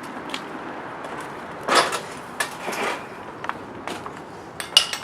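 A handful of sharp knocks and clatters of hard objects being handled or kicked, irregularly spaced and loudest near the middle and near the end, over a steady background rumble.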